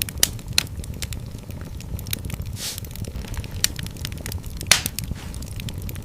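Wood fire in a fireplace crackling and popping: a steady low rumble of flames under frequent sharp pops. The loudest pop comes near the end, and there is a brief hiss a little before the middle.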